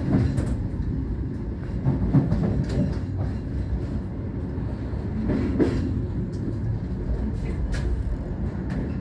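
Passenger train running on the rails: a steady low rumble with scattered clicks and knocks.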